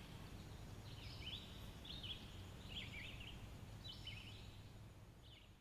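Faint outdoor ambience: a songbird singing short repeated phrases about once a second over a low steady background hum, all fading out near the end.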